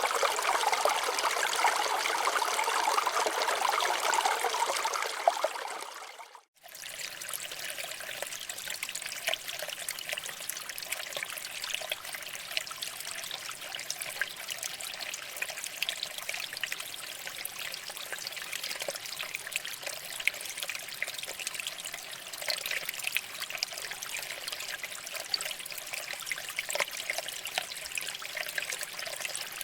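Water flowing and splashing over rocks: a fuller rushing flow that fades out about six seconds in, then, after a brief gap, a quieter trickle with many small distinct splashes.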